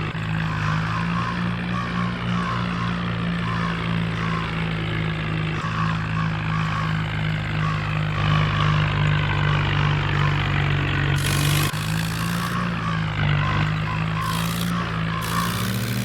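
Swaraj 963 tractor's diesel engine running steadily under load.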